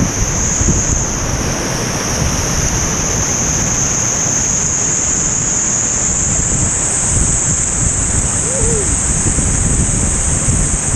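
Steady rushing noise of falling water from a waterfall, with wind buffeting the microphone.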